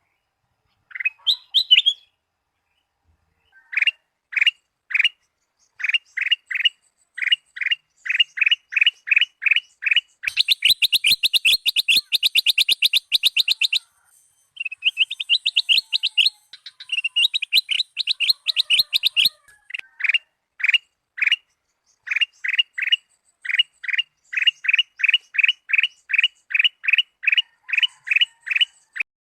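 Kutilang emas (a bulbul) singing: a run of short, clear whistled chirps repeated one after another, speeding up into fast rattling trills about a third of the way through, then slowing back into spaced chirps.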